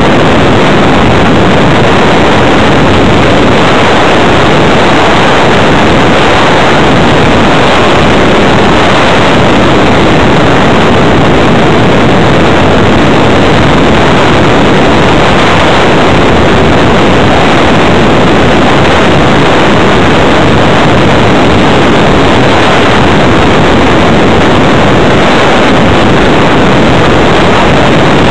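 Steady, very loud rushing airflow noise picked up by the onboard keychain camera of a Multiplex Blizzard RC flying wing in flight, with no clear motor tone standing out.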